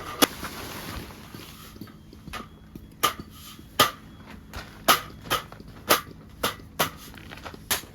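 A series of about ten sharp knocks at uneven intervals, roughly one every half second to second, over a faint steady background.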